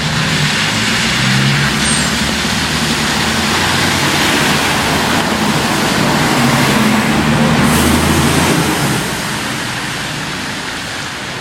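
Road traffic on a rain-wet street: tyres hissing on the wet road over engine rumble, one vehicle passing close and loudest about eight seconds in before fading.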